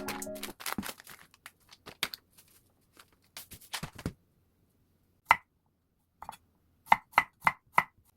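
Kitchen knife chopping on a cutting board. It makes one cut about five seconds in, then four quick, even chops near the end, after a stretch of light rustling and small clicks from handling the food.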